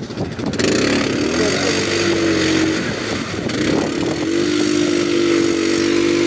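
ATV engine running hard at high revs, its pitch climbing and then holding steady, over a loud rushing noise.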